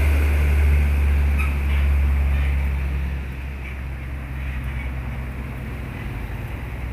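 Heavy truck's diesel engine running with a deep, steady rumble that drops noticeably in level about three seconds in.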